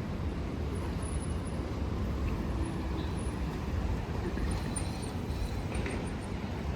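Steady city street traffic noise, a low rumble of passing vehicles, with a few faint high squeaks above it.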